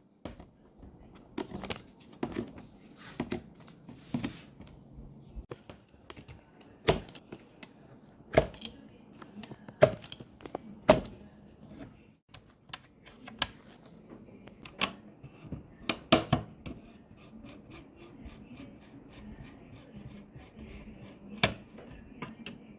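Sharp clicks and snaps from computer hardware being handled, with several loud single clicks and a run of fast light ticking in the second half.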